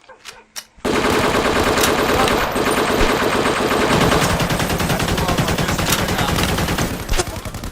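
Loud, continuous automatic gunfire: a few scattered single shots, then about a second in a sudden, dense stretch of rapid machine-gun fire that keeps up, easing slightly near the end.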